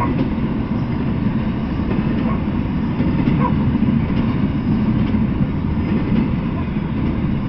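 Double-stack intermodal freight train rolling past, its well cars' wheels on the rails making a steady low rumble.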